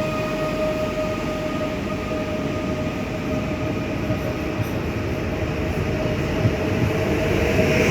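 Koleje Śląskie electric passenger train pulling out of the station with a continuous rumble. A steady high whine fades out over the first few seconds.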